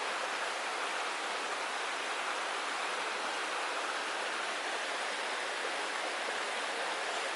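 Creek water rushing steadily over rocks, an even hiss with no breaks.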